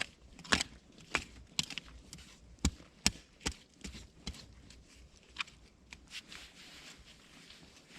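A series of short, sharp crunches and knocks, about two a second, that thin out after about four seconds.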